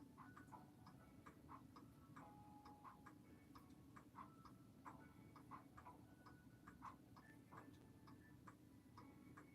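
An old mechanical clock ticking faintly and steadily, a few even ticks a second.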